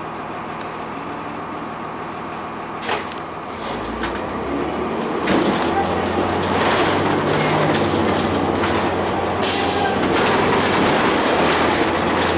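Cummins ISL9 diesel of a 2002 Blue Bird CS transit bus heard from inside the cabin. It runs steadily at first, then about five seconds in it pulls away and the engine and road noise get louder, with a low hum. There is a knock near three seconds and a short hiss about halfway through.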